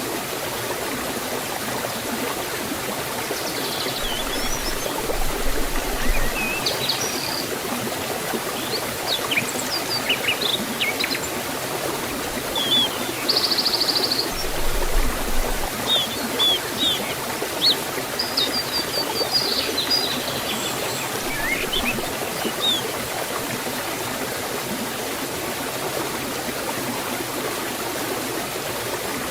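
Steady rush of water from a forest waterfall and stream. Small birds chirp and call over it from a few seconds in until about two-thirds of the way through.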